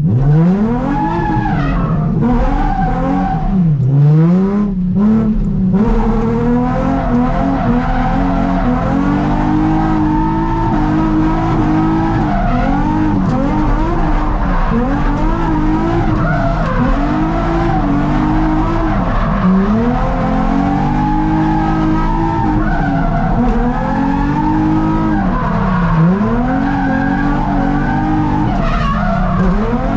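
Nissan 350Z's 3.5-litre V6 revving up and down over and over while the car is drifted, with tyres squealing and skidding.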